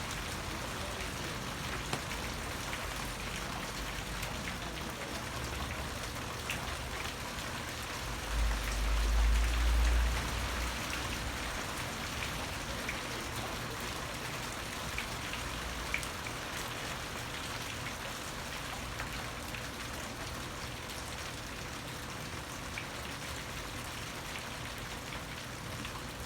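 Steady autumn rain falling, with faint scattered drop ticks. About a third of the way in, a low rumble swells for about two seconds and fades.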